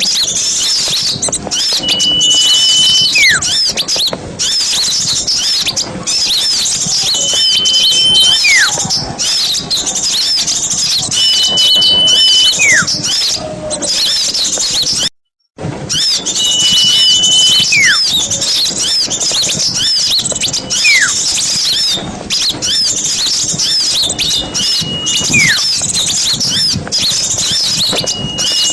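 A dense, continuous chatter of many small birds in high-pitched chirps, with a louder call repeated several times: a level whistle held about a second, then a quick falling whistle. The sound cuts out completely for about half a second midway, as at the join of a looped bird-lure recording.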